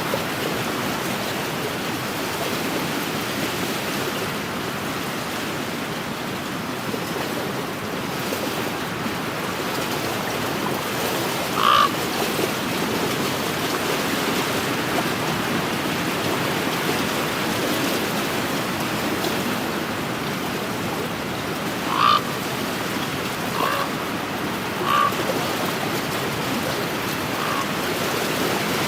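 Wind-driven waves washing on a lakeshore, a steady wash of noise. A few short animal calls cut through it, one near the middle and three or four more in the latter part.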